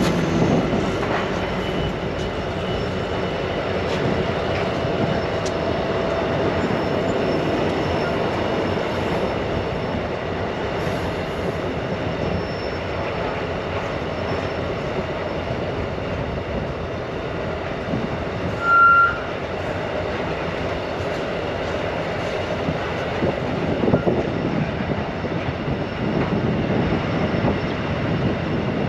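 Narrow-gauge freight train of tank wagons rolling steadily past, a continuous rumble of wheels and rail joints. About two-thirds through there is one brief high-pitched squeal.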